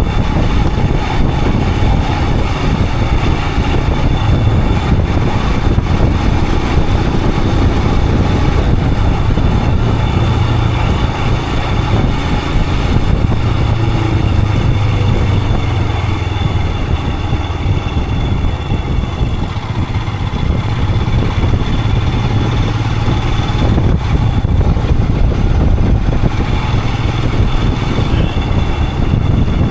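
Royal Enfield Himalayan 411's single-cylinder engine running steadily under way, its note holding at a constant pitch with no clear revving.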